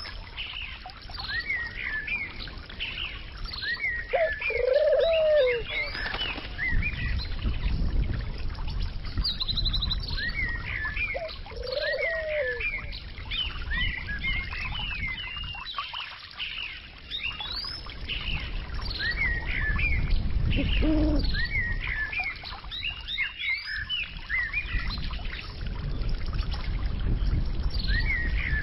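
Many small birds chirping and twittering repeatedly, with two lower cooing calls about five and twelve seconds in, over a low steady rumble.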